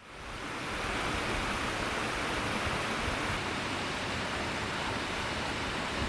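River water rushing steadily, an even noise that fades in over the first second.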